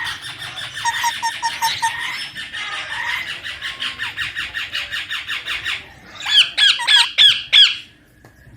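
Baby ringneck parakeet squawking: a rapid run of chattering notes for about six seconds, then about five loud, shrill arching calls near the end.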